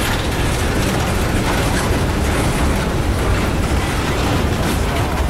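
Freight train rolling past close by: steel wheels running on the rails, a loud, steady rumble with no break.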